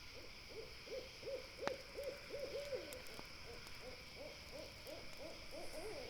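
An owl calling a rapid run of short hoots, about three or four a second, over the crackle of a campfire, with one sharp pop of the fire a little under two seconds in.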